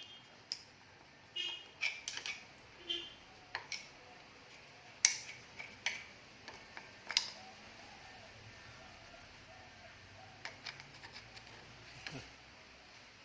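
Scattered sharp clicks and light metallic taps of hand tools and parts being handled, the loudest about five and seven seconds in, with fainter ticks near the end. A few short bird chirps sound in the first three seconds.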